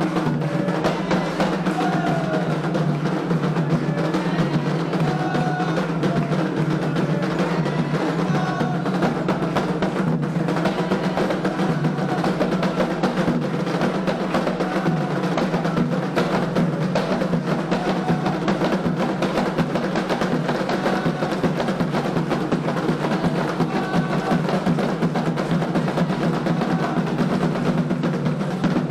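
Candomblé ceremonial drumming on atabaque hand drums, playing continuously, with faint singing voices over it.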